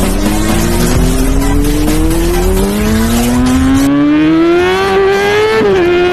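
Car engine revving up in one long, steadily rising pull for about five seconds, then dipping slightly and holding steady. A rushing tyre noise runs under it and stops about four seconds in.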